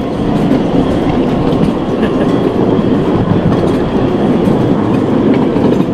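Small diesel-powered ride-on train heard from aboard one of its cars: the engine and the wheels on the track make a steady, dense running noise as it rolls along.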